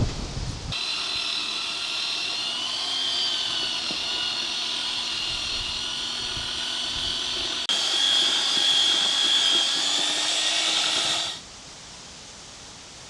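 An electric power tool running steadily with a high whine. About eight seconds in it jumps louder and slightly higher, then it cuts off suddenly near the end.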